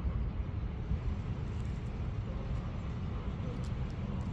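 Steady low rumbling background noise outdoors, with no clear rhythm or single source standing out.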